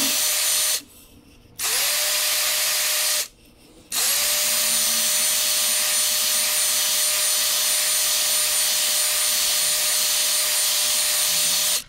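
Electric drill spinning a cylinder hone inside an aluminium Mag-Lite flashlight tube, smoothing out rough, corroded spots in the bore. It stops twice briefly in the first four seconds, spinning back up each time, then runs steadily until it stops at the very end.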